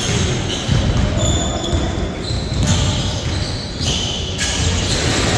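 Basketball game play: a ball bouncing repeatedly on the court floor, with short high squeaks scattered through it.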